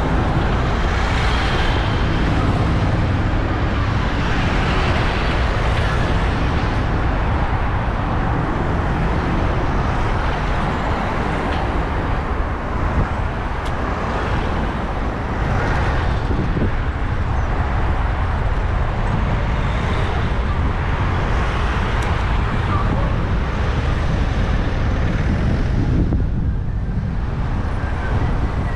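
Street traffic noise heard from a moving bicycle, with a steady low rumble of wind on the handlebar-mounted camera's microphone.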